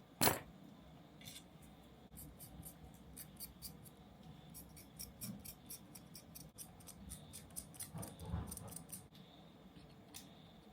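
One sharp click, then an irregular run of small, quick, high ticks and light taps, with a soft thud near the end: small kit parts being handled and fitted by hand.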